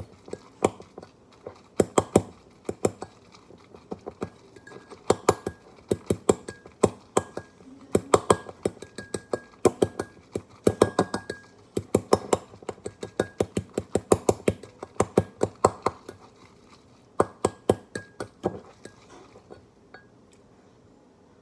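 Metal fork clinking against the inside of a mug in quick bursts of taps while mashing cooked egg into scrambled pieces. The tapping stops near the end.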